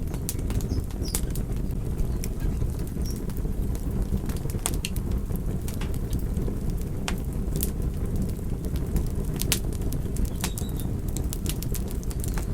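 Wood fire crackling: frequent sharp, irregular pops and snaps over a steady low rumble of burning.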